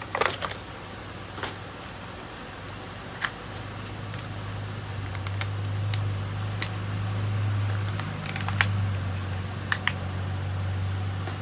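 Scattered light clicks and taps of a small diecast model truck being handled, over a steady low hum that grows louder a few seconds in.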